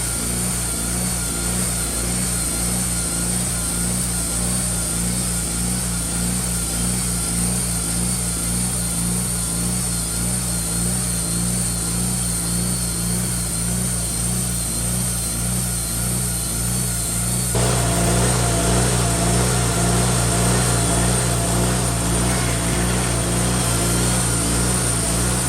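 An engine running steadily with a low, even pulse, getting louder about two-thirds of the way through as it is throttled up or takes load.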